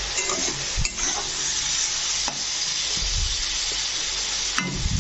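Brinjal pieces sizzling as they fry in oil in a metal pan, with a steady hiss. A metal spatula scrapes and clinks against the pan a few times as they are stirred.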